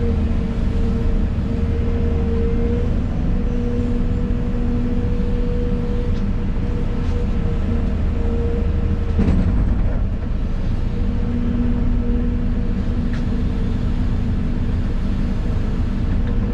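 Excavator running under work, heard from inside the cab: a steady engine hum with a higher tone from the machine that fades in and out as it works. One knock sounds about nine seconds in.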